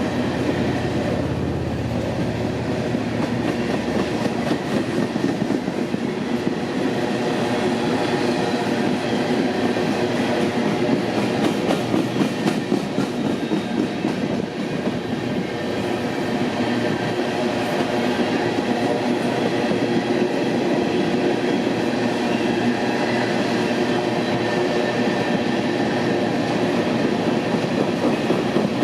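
Empty coal hopper cars rolling past: steady clatter of steel wheels over the rails with a ringing wheel-on-rail tone, and a low rumble that fades in the first few seconds.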